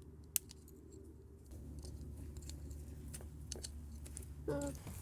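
Sharp plastic clicks and small handling noises as an H7 halogen low-beam bulb is worked loose from its headlight socket, with one loud click early on and a short squeak near the end, over a steady low hum.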